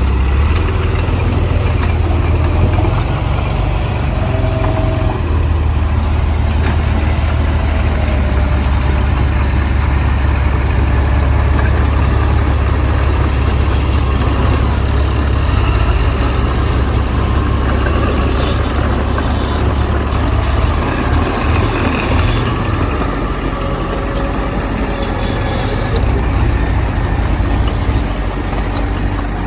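Heavy diesel engine of earthmoving machinery running steadily with a deep, loud drone.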